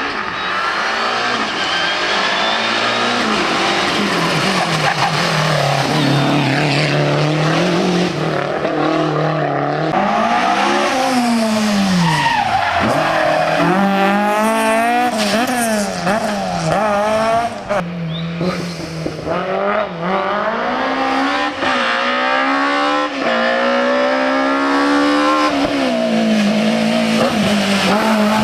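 Historic rally car engine revving hard on a special stage. The pitch climbs and drops again and again with gear changes and lifts, falling sharply once about halfway through before rising again.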